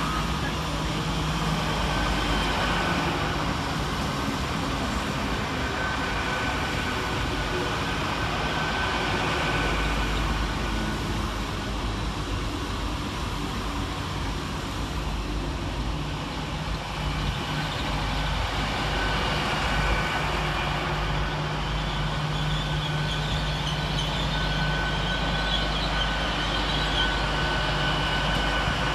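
Great Western Railway Class 800 Intercity Express Train, two units coupled, moving along the platform. It gives a steady low hum with a thin high whine over it and a rumble of wheels beneath.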